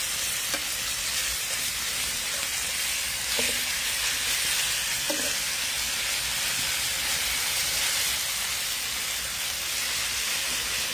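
Boneless, skinless chicken thighs sizzling in oil and marinade in a skillet: a steady frying hiss, with a few light clicks of metal tongs against the pan as the pieces are turned.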